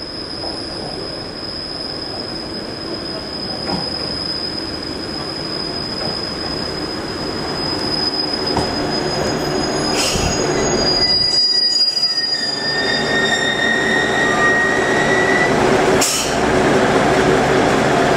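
JR KiHa 110 series diesel railcar running in to a stop at a station platform, its wheels squealing with a steady high-pitched tone under braking that dies away about twelve seconds in. Two short hisses come about ten and sixteen seconds in, and the railcar's running noise grows louder as it stands alongside.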